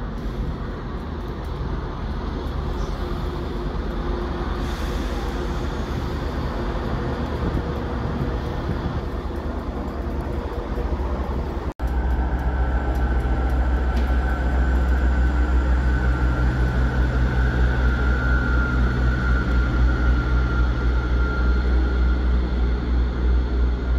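Diesel multiple-unit trains running through a station on the far track. First a passing train's engine and wheel noise; after a sudden break about halfway, a second diesel unit's engine runs louder, with a steady low drone and a thin high whine over it.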